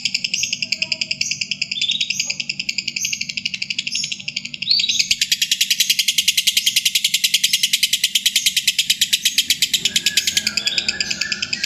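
Lovebird giving its long 'ngekek' chatter: a fast, unbroken run of rapid, high, scratchy notes, with a brief dip about four and a half seconds in before it carries on.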